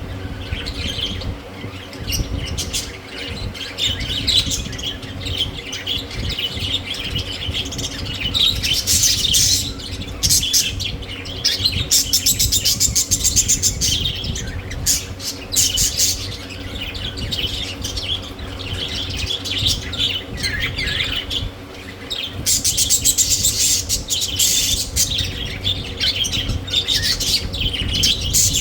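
Budgerigars chirping and chattering with scratchy squawks, in busier rapid runs a few times, over a steady low hum.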